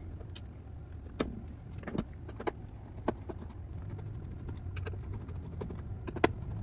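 Irregular small clicks and taps of a Phillips screwdriver turning out the screws of a Roomba's plastic bottom panel, over a low steady hum.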